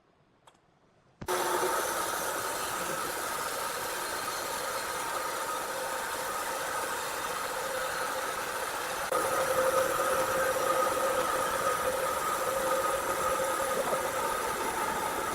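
Heavy machinery running with a steady, noisy drone carrying a couple of steady tones. It starts abruptly about a second in and steps up louder around nine seconds in.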